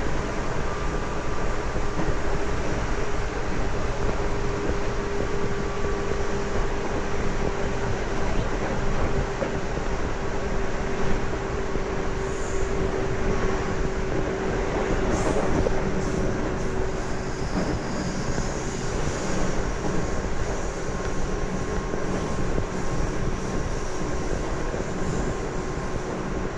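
811 series electric train running at speed, heard from inside the carriage: a steady rumble of wheels on rail with a steady hum from its external-fan traction motors. A brief click about fifteen seconds in.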